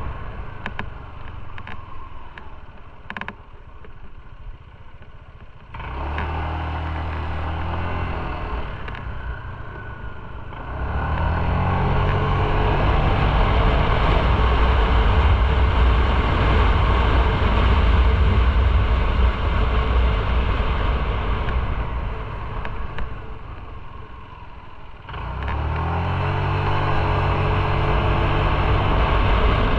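Motorcycle engine and wind noise while riding. The engine runs quietly at first, then pulls away about a fifth of the way in, its pitch climbing in steps. It cruises at speed under a loud rush of wind, eases off, and accelerates again near the end.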